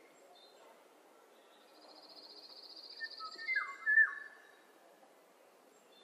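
A bird calling: a rapid high trill, then a few short, clear whistled notes, loudest about four seconds in, over a faint steady room hiss.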